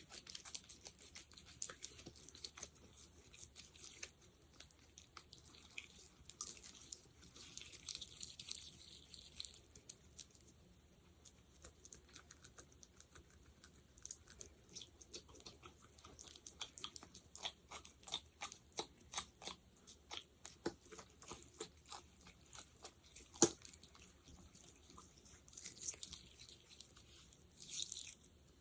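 Fingers working a sticky gel, making quiet, crackly sticky taps and smacks, with a quick run of clicks in the middle and one louder snap about three-quarters of the way through.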